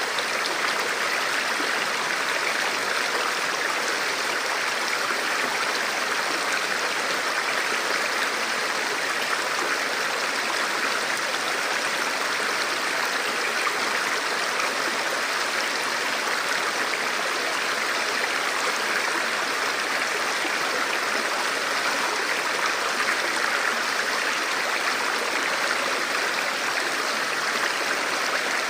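Forest stream flowing steadily over rocks, a constant rush of running water with no other sound above it.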